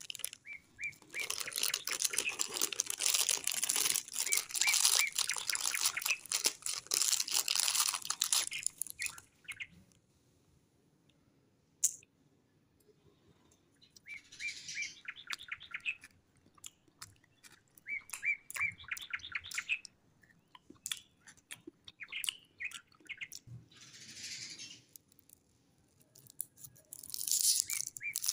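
Small birds chirping in short runs of quick repeated notes, several times, over crisp crunching and crinkling from biscuits and snack wrappers being handled, most of it in the first eight seconds and again briefly near the end.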